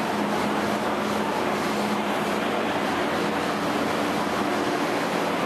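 Steady rumbling noise of a train running, with a constant low hum underneath.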